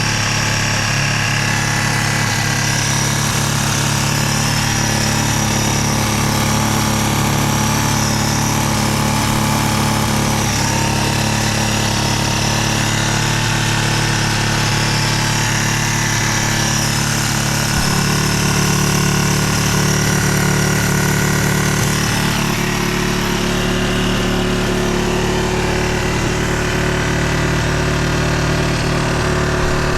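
Yamaha Serow 225W's air-cooled single-cylinder four-stroke engine idling steadily, its note changing slightly about 18 seconds in. The bike has an exhaust leak at the exhaust manifold joint.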